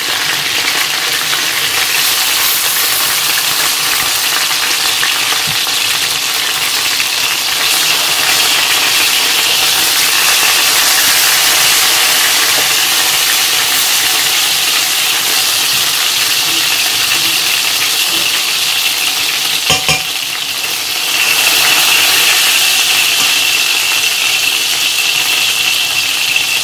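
Chicken pieces shallow-frying in hot oil in a frying pan: a steady, loud sizzle, with a couple of brief knocks about twenty seconds in.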